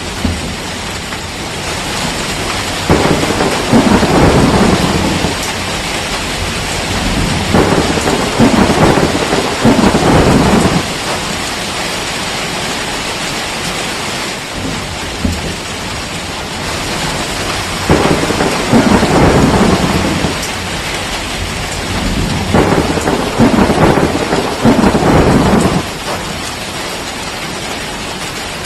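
Steady heavy rainfall with rolling thunder. Four long low rumbles of thunder swell up and die away over the rain, about three, eight, nineteen and twenty-four seconds in.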